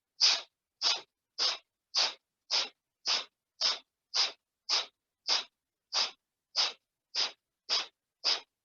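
Kapalbhati breathing: short, forceful exhales puffed out through the nose by the diaphragm, evenly paced at about two a second, each a brief hissing puff.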